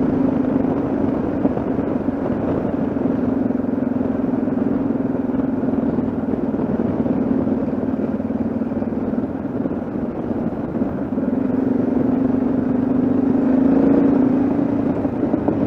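Yamaha XT660Z Ténéré's single-cylinder four-stroke engine running steadily under way. Its note eases off a little past the middle and comes back up near the end.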